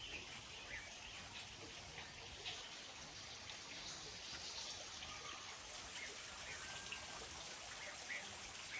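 Faint outdoor background noise: a steady hiss with scattered brief, high-pitched ticks.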